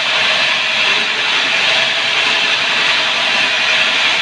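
Sawmill saw cutting lengthwise through a sengon log: a steady, loud cutting noise with no pauses.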